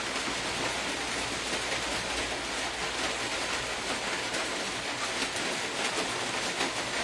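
Steady hissing background noise, even and unbroken, with faint scattered ticks.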